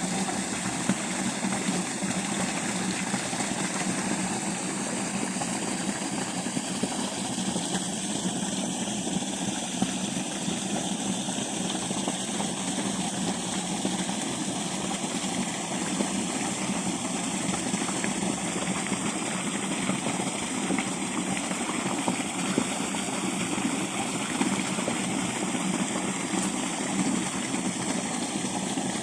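Irrigation pump engine running steadily at an even speed, with water rushing.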